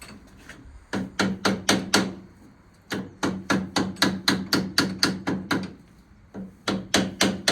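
Hammer tapping rapidly on metal in three quick runs of about four or five blows a second, each blow ringing, knocking a seized brake lever on a 1934 Lagonda to free it.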